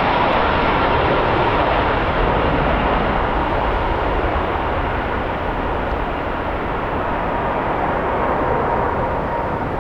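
Jet airliner's engine noise slowly fading as the aircraft moves away, with a faint steady whine, over strong wind rumbling on the microphone.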